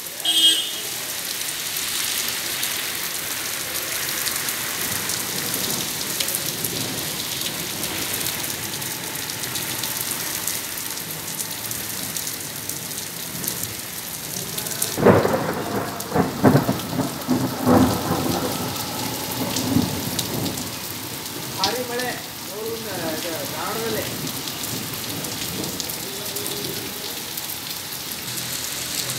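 Heavy rain pouring onto a paved road, a steady hiss. About halfway through come several seconds of louder, irregular rumbling and knocks.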